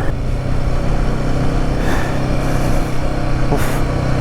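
Royal Enfield Himalayan 450's single-cylinder engine running steadily under way. Two brief hissy bursts come about two and three and a half seconds in.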